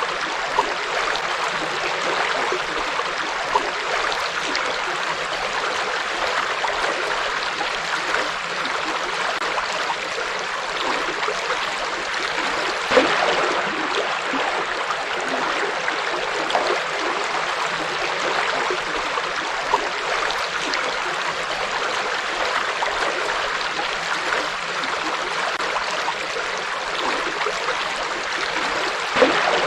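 A forest river flowing over rocks: steady rushing and gurgling water, with occasional brief louder splashes.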